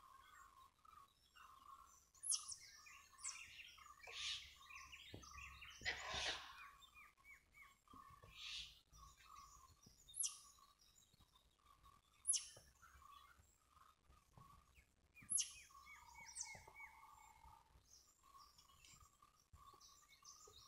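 Faint birdsong: a run of short notes repeated over and over, with sharp, high chirps every two to three seconds.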